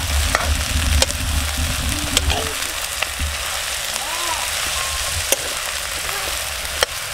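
Chopped onion, garlic and ginger sizzling steadily in hot oil in a steel kadhai. A steel ladle stirs them and clinks against the pan now and then.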